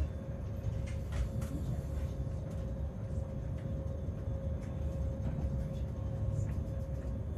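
Inside a moving passenger train: the steady low rumble of the carriage running along the track, with a constant hum over it and a few faint clicks.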